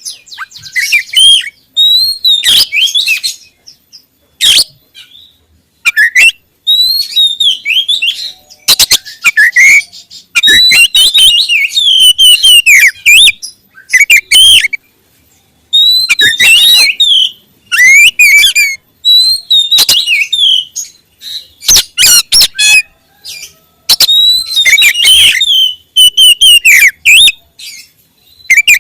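Oriental magpie-robin singing loudly and close up: rapid, varied whistled phrases in bursts of one to two seconds, broken by short pauses.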